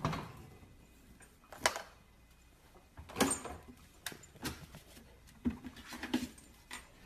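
Irregular soft knocks and clicks, about seven of them spread unevenly over several seconds, with faint rustling between them.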